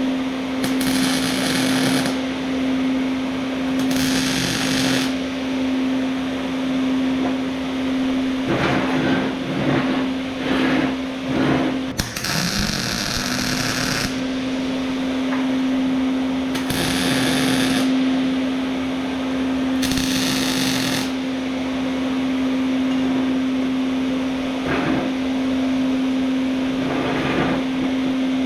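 Angle grinder running steadily on steel, with repeated bursts of harsher grinding noise each time the disc bites. About twelve seconds in it slows and spins back up.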